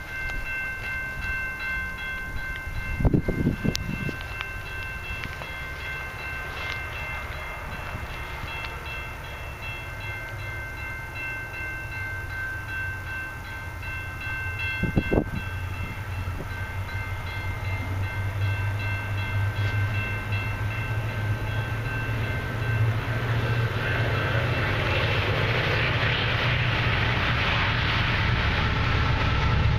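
A freight train's diesel locomotives approaching, a low rumble growing steadily louder through the second half. A steady high whine runs through the first half, and two brief thumps come about three seconds in and again near the middle.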